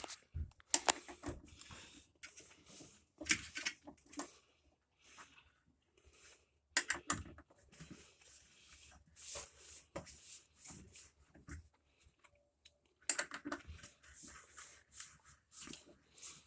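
Irregular clicks, taps and light clattering of hand tools and metal parts handled during washer disassembly. The sharpest knocks fall about 1 s, 3.5 s, 7 s and 13 s in, with a quiet spell just before the last.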